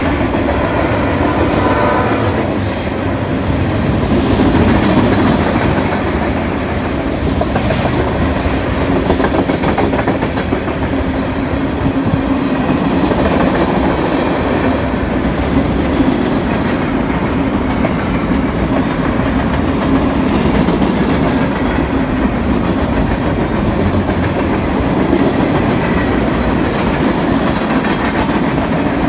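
A BNSF train's horn chord ends about two seconds in. The train's cars then roll by with a steady rumble and clickety-clack of wheels over rail joints.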